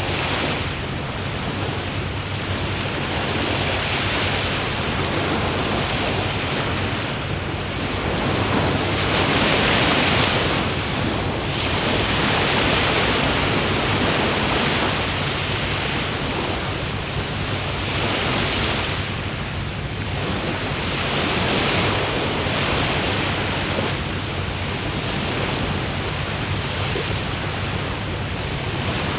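Wood fire burning in a fire pit: a steady rushing noise that swells and fades every few seconds, with faint crackles. A constant high-pitched tone runs through it.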